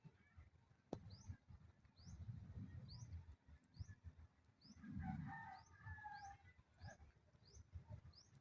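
A small bird repeating a short, high, rising chirp at an even pace, a little over once a second, over faint low rumble. About five seconds in, a second, lower call joins for about a second. A single click comes near the start.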